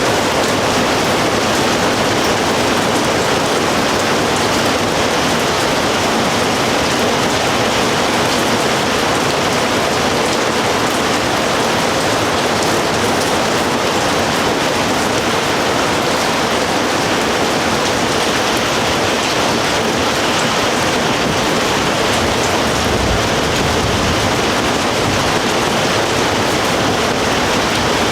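Rain pouring down steadily: an even, unbroken hiss.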